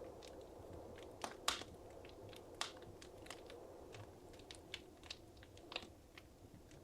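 Wood fire crackling in a fireplace: irregular sharp pops and snaps over a soft low hiss, with a louder pop about a second and a half in.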